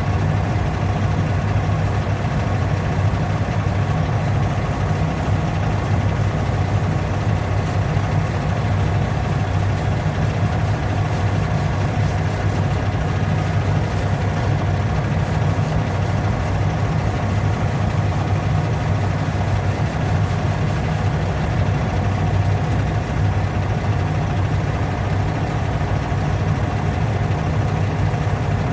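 A motor running steadily with an even low hum that does not change.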